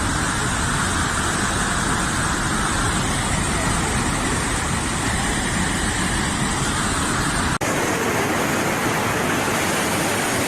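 Steady rushing noise of a tropical storm's wind and rain. About seven and a half seconds in, the sound changes abruptly and loses its deep rumble.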